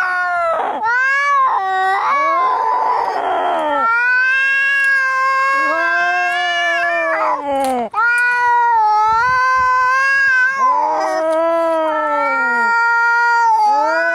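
Angry cats caterwauling: long, drawn-out yowls that rise and fall in pitch one after another, with a harsh hiss about two to four seconds in and a brief break near eight seconds.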